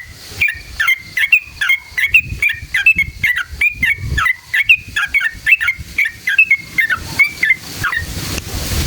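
Yellow-vented bulbul (trucukan) singing a long, rapid run of bubbly chirped notes, about three a second, that stops near the end. A low rumble runs underneath, and a hiss rises as the song ends.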